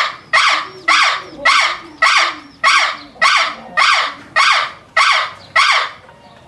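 A harsh animal call repeated about twice a second, some ten times in a steady series, each call loud at the start and fading. A fainter, lower gliding call runs beneath it.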